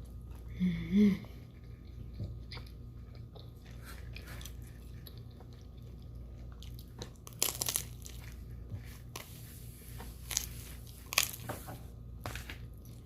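Close-miked mouth sounds of someone biting and chewing pizza, with crackling crunches of the crust now and then. A short 'mm' hum about a second in.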